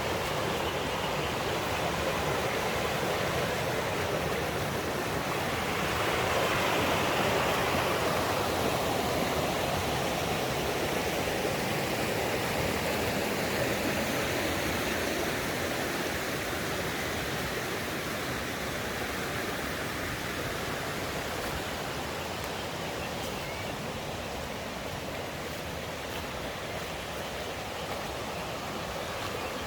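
Mountain stream rushing steadily over rocks, a continuous water noise that swells a little about six seconds in and eases slightly toward the end.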